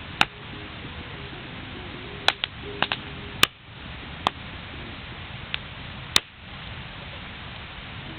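Wood bonfire crackling, with about nine sharp pops at irregular intervals over a steady background hiss.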